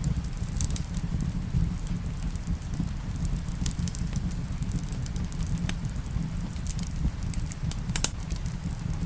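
Wood fire in a fireplace crackling, with irregular sharp pops, the strongest about 4 and 8 seconds in, over a steady low rumble, mixed with rain.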